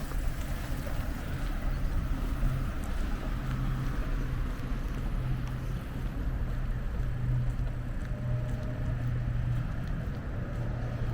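Steady low hum of a running vehicle engine, with street noise around it.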